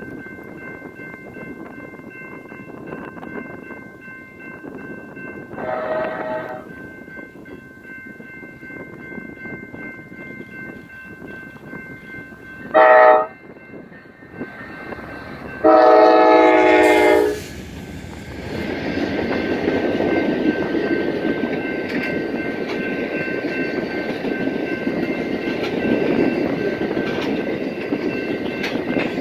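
Amtrak passenger train led by two GE Genesis diesel locomotives sounding its horn in the grade-crossing pattern: a longer blast, a short one, then a loud long one that is the loudest sound. After the last blast, the steady rumble and wheel noise of the train passing close by, with bi-level cars rolling past.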